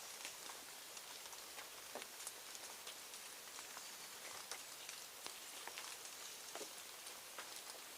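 Faint, irregular light ticks and patter over a steady high hiss.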